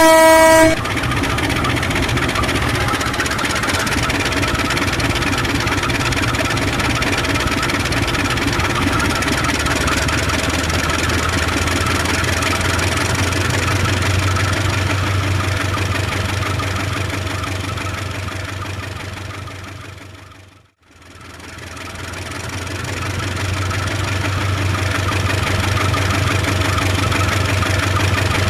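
A short train horn toot, then a steady locomotive engine running with a low hum. The engine sound fades out about twenty seconds in and fades back up.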